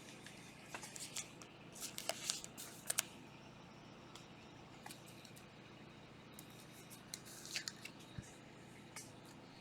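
Faint clicks and snips of trading cards and their packs being handled and opened, in a cluster over the first few seconds and again briefly near the end.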